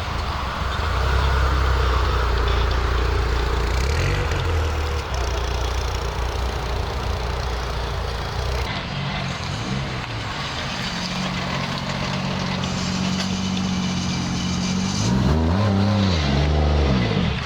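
Car engines running at low speed, with an engine revving up and back down near the end.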